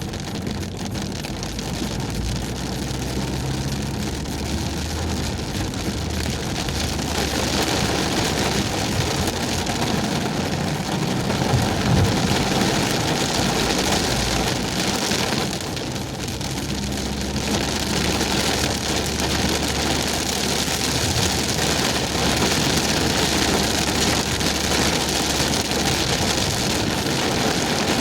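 Heavy rain falling steadily, with a car's engine and tyres running underneath; the rain hiss eases briefly about halfway through, then picks up again.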